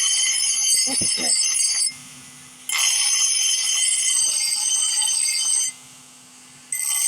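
Power grinder grinding steel in three bursts a few seconds long, with a high ringing whine and brief pauses between passes, as when a knife blade is being shaped.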